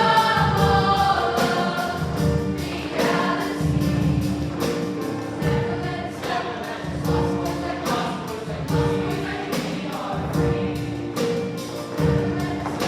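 A choir singing with backing music that has a steady beat.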